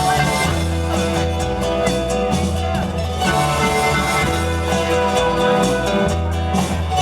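Live band music played through a PA sound system, with held bass notes changing about every second under sustained melody lines.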